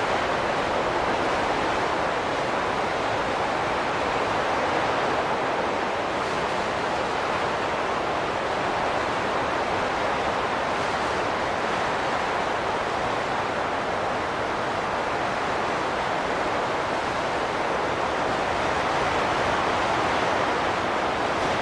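Wind blowing as a steady rush, with slow, slight swells in strength.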